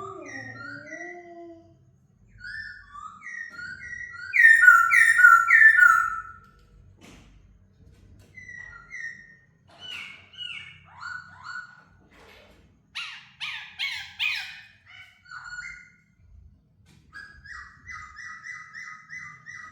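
Laughingthrush singing a string of varied whistled phrases, each of rapidly repeated notes, with short pauses between them. The loudest phrase comes about four to six seconds in.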